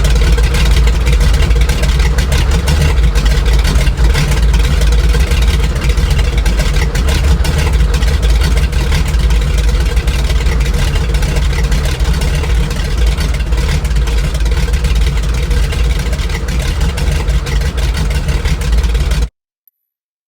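Grumman Goose's twin Pratt & Whitney R-985 Wasp Junior radial engines running steadily, a loud low drone, cutting off abruptly near the end.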